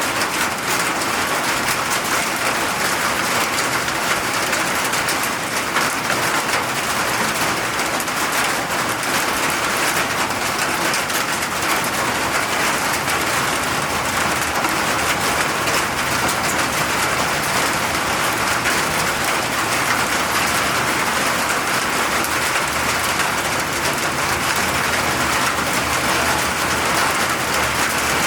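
Steady rain falling, a dense even hiss of drops hitting surfaces with no letting up.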